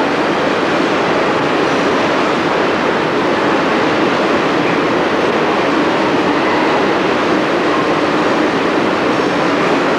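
Freight wagons loaded with steel pipes rolling through at speed: a loud, steady din of wheels on rail.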